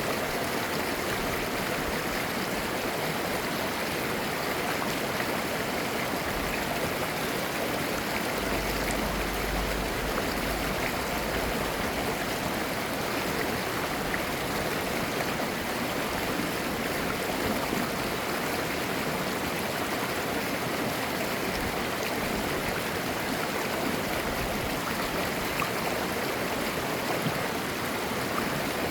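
Mountain stream flowing over rocks, a steady babbling and gurgling rush of water.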